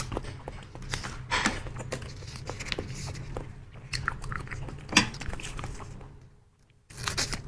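Close-miked chewing of soft fruit jelly: wet smacks, squelches and lip clicks as a mouthful is worked. Near the end, after a short gap, a plastic jelly packet rustles as it is handled and cut open with scissors.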